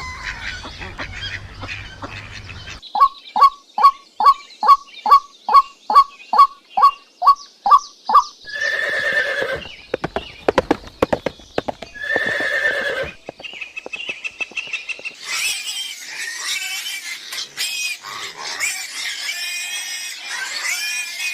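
A run of different animal calls. First comes a quick series of about a dozen short, evenly spaced calls, then two longer calls a few seconds apart with clicking between them, then a busy stretch of overlapping chirps.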